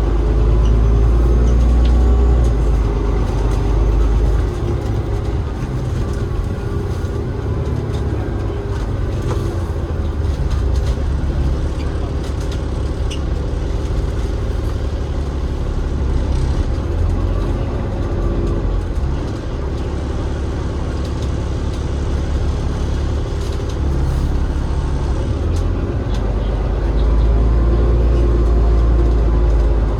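Cummins ISL8.9 inline-six diesel engine and ZF EcoLife automatic gearbox of an Alexander Dennis Enviro500 MMC double-decker bus running under way. A deep drone that is louder for the first few seconds and again near the end, as the engine works harder.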